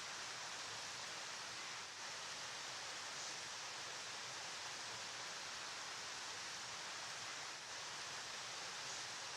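Flowing river water making a steady, even rushing hiss, with no separate splashes or changes.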